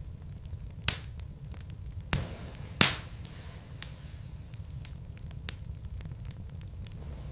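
Wood fire in a fireplace crackling over a low steady rumble, with scattered pops from the burning logs; the loudest pop comes near the middle.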